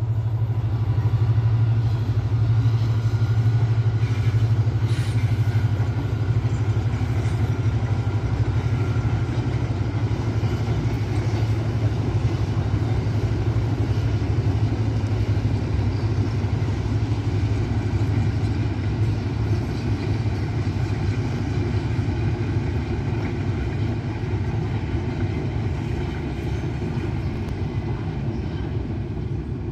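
An EMD diesel locomotive's engine drones and a long rake of PT-Inka coaches rumbles past on the rails, a steady low hum under a rushing noise that slowly fades in the last few seconds as the train draws away.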